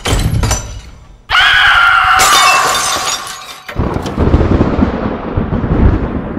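A sudden loud crash a little over a second in, carrying a ringing tone that sags slightly in pitch and a hiss of shattering. It gives way to a low rumble.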